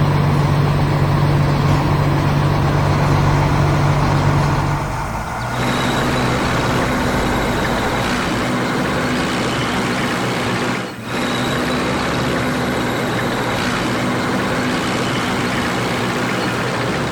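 Heavy vehicle engine running steadily, with a low hum. Its tone shifts about five seconds in and drops out briefly near eleven seconds.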